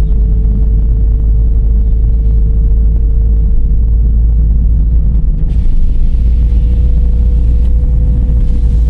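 Dodge Charger driving: a heavy low road rumble with a steady whine running through it. About five and a half seconds in, a steady hiss joins, such as tyres on a wet road.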